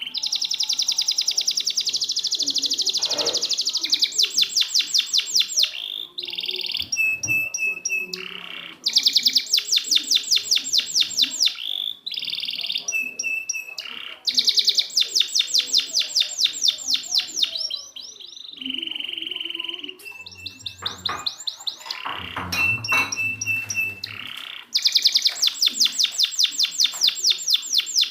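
Domestic canary singing a long, continuous song: phrases of rapid repeated trilled notes, each run lasting a few seconds, linked by short steady whistled notes.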